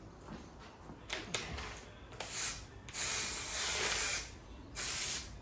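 Aerosol can of trim adhesive spraying in three hissing bursts: a short one, a longer one of just over a second, and another short one near the end. A small click comes before them.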